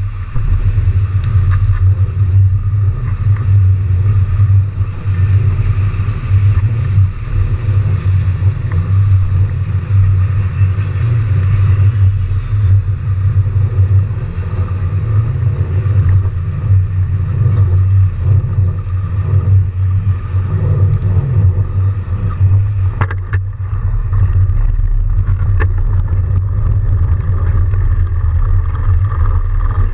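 Steady low rumble of riding a fat bike through snow: wind and tyre noise buffeting the on-board camera's microphone, with a couple of sharp knocks about two-thirds of the way through.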